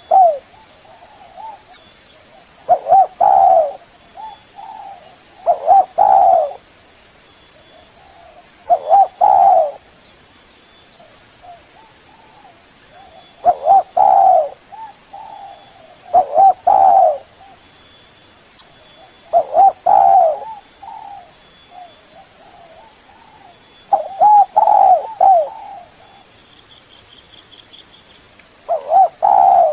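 Spotted dove cooing: a short phrase of mellow coos repeated every three to five seconds, about nine times. It is the rhythmic call used to lure and challenge rival doves.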